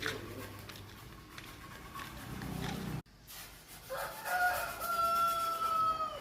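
A rooster crowing once: one long call in the second half, held steady and dipping slightly at the end. Before it, a low steady hum that cuts off suddenly.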